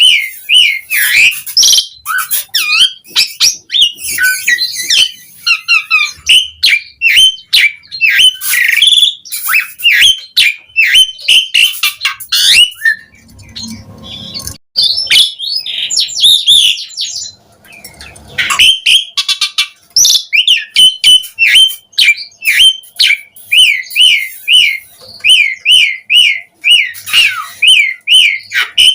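Asian pied starling (jalak suren) singing a loud, fast, varied song of chirps, whistles and harsh squawks. The song eases briefly midway, then runs into a steady string of repeated chirps.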